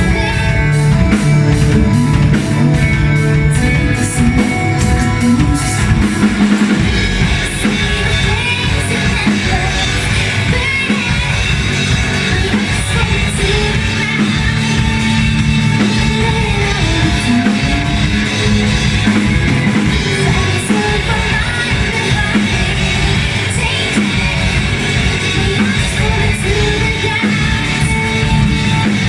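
Live rock band playing a song: a singer over drums and electric guitar, with a steady beat and cymbal strikes ticking through the opening seconds.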